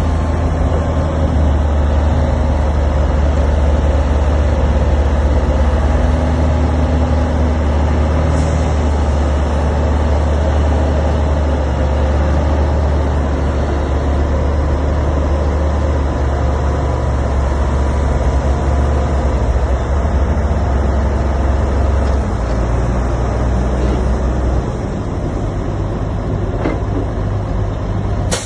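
Diesel engine of a Shantui DH17C3 crawler bulldozer running steadily under load with a deep low rumble, easing a little near the end.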